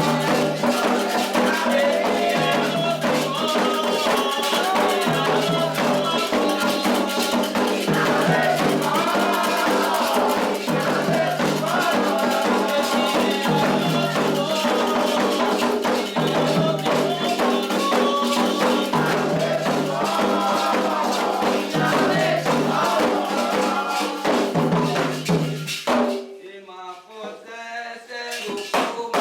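Candomblé toque for Oxossi and Ossaim: sung chant over hand drums with a shaken rattle, in a steady repeating rhythm. About three seconds before the end the music drops away almost at once, leaving faint voices, then picks up again.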